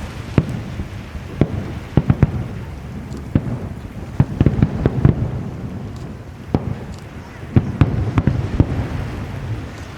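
Aerial fireworks bursting in quick, irregular succession: sharp bangs about every second, some in close pairs, over a continuous low rumble and crackle from the barrage.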